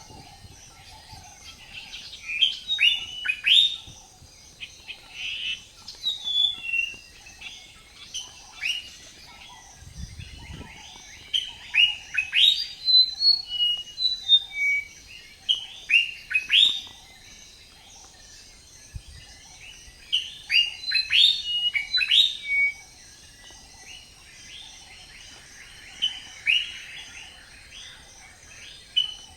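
A small bird chirping in bursts of sharp, quick downward-sweeping notes, several at a time, with pauses of a few seconds between bursts.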